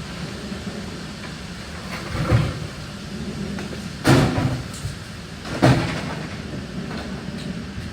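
Three loud bangs of junk and debris being handled and dropped, the middle one loudest, over a steady low rumble.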